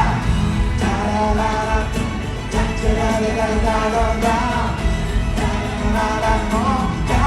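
Live pop concert music: a full band playing with singing over it, the singing coming in phrases with short gaps between them.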